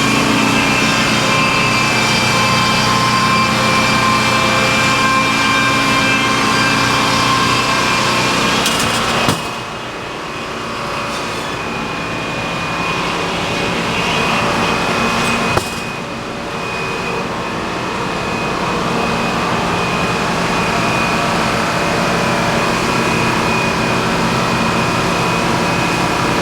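Sawmill machinery running steadily: an engine-driven drone with a steady high whine over it. The sound drops suddenly about nine seconds in and again around sixteen seconds, each time building back up.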